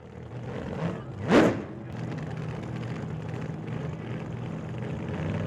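Vehicle engine running steadily, with one quick, loud rev about a second in.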